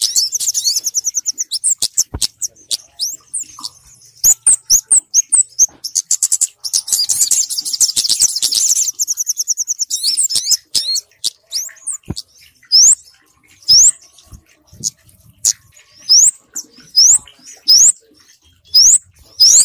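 Lure recording of small birds calling, kemade and sogok ontong combined: high, rapid twittering trills in the first half, then separate sharp rising chirps roughly once a second.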